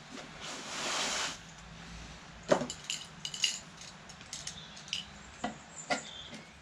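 Workbench handling noises while making a gasket: a brief scraping rustle about a second in, then a sharp metallic clink and a scatter of small clicks and taps of tools being picked up and put down.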